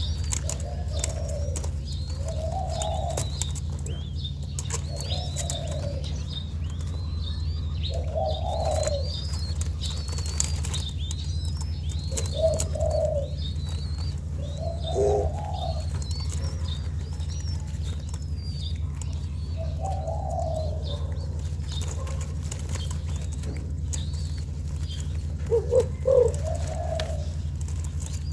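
Young spotted dove cooing in short repeated phrases every few seconds, over a busy chatter of small birds' high chirps and a steady low hum.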